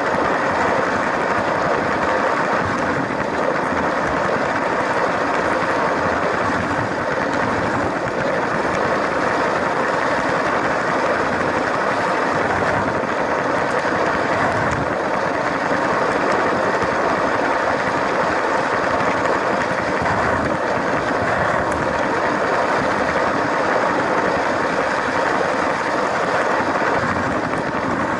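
LEGO train running steadily along plastic track: the small electric motor whirring, with the wheels and gears rattling continuously.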